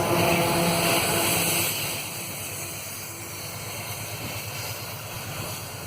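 A motor vehicle's engine drone, steady in pitch, fading away about two seconds in and leaving a steady hiss of background noise.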